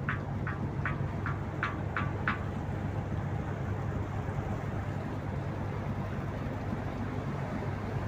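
Tugboat's diesel engine running with a steady low drone. Over the first two seconds, a quick run of short high chirps or ticks, about three a second, then they stop.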